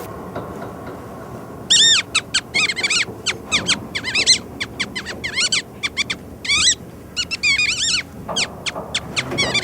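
A small animal squeaking: short, high, arched chirps in quick runs, starting about two seconds in and repeating in clusters.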